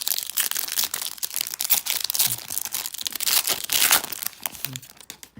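Plastic trading-card pack wrapper being torn open and crinkled, a dense crackling that stops just before the end.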